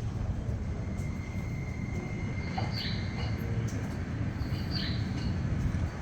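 Tobu Spacia X electric limited express train rolling slowly into the platform: a steady low rumble, with a faint high steady tone that fades about two seconds in and short high squeaks about three and five seconds in.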